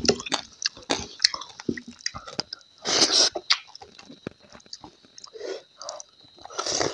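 Close-miked chewing and lip smacking of rice and food eaten by hand, many small wet clicks, with two short noisy breaths: one about three seconds in, one near the end.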